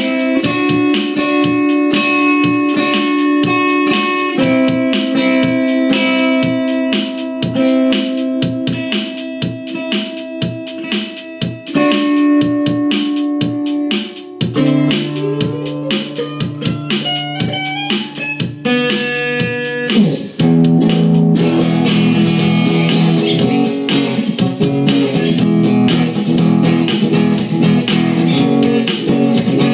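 Instrumental blues played on guitar: picked notes and repeated phrases, a run of notes climbing in pitch about halfway through, then busier, fuller playing in the second half.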